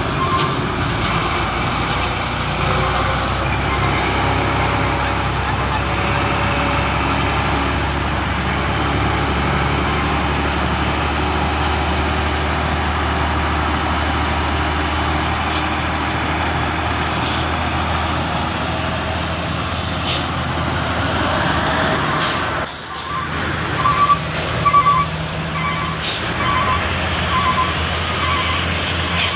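Truck engine running with a steady low drone on a steep climb. Short, evenly repeated beeps sound near the start and again about three-quarters of the way in.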